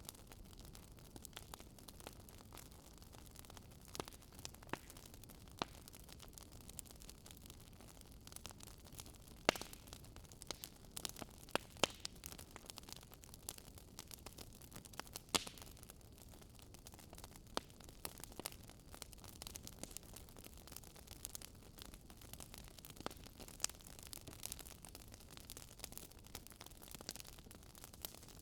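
Campfire burning with irregular sharp crackles and pops over a low steady hiss of the flames, some pops louder than others.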